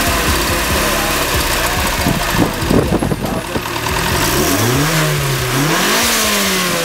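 Turbocharged Nissan SR20DET four-cylinder engine in an S14 240SX running, then revved from about four seconds in, its pitch rising, holding, rising again and falling back.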